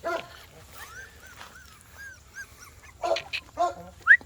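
Newborn puppies squeaking and whimpering in a run of short, thin, arching cries, with a few louder short calls at the start and about three seconds in.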